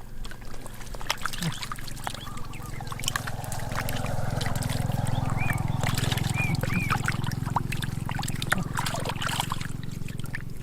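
Water splashing and trickling over a steady low hum, with scattered clicks and three short high chirps in the middle.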